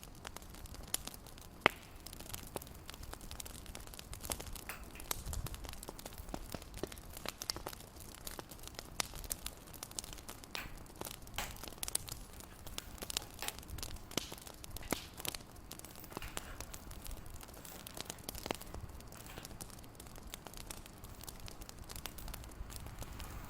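Wood fire crackling in a fireplace: irregular pops and snaps over a soft steady hiss.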